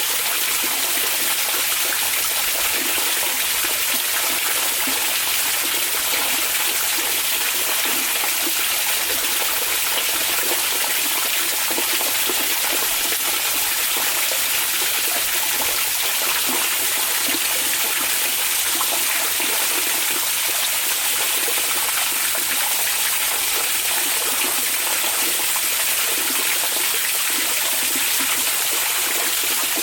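Steady, unbroken rush of hot-spring water flowing and splashing, used as green noise.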